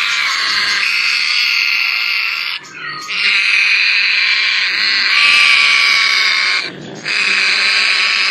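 Many caged pet parrots and budgies chattering and calling together in a dense, continuous chorus, briefly dipping twice.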